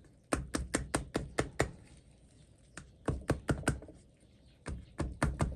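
Quick light taps on the metal of a vise, in three runs of about five a second, as a replacement part is tapped into place.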